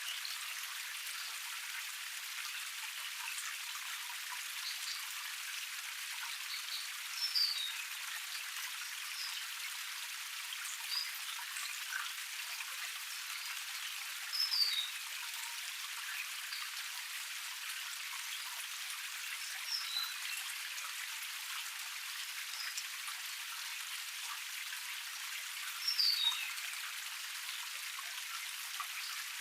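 Small forest waterfall cascade splashing steadily, a thin bright patter of falling water with no deep rumble. A bird calls over it in short high chirps about five times.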